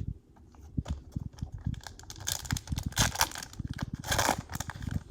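Foil wrapper of a trading-card pack crinkling and tearing, with short clicks of cards being handled.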